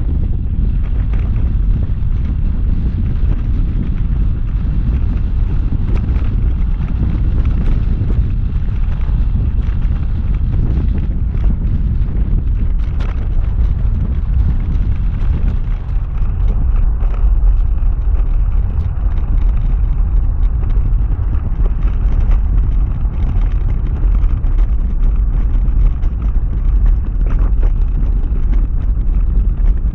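Wind buffeting the microphone of a camera riding on a moving bicycle: a loud, steady low rumble with a fainter hiss.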